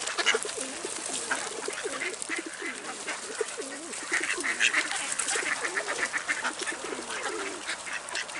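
A crowd of feral pigeons cooing on and on, with ducks and geese calling in among them in quick runs of calls.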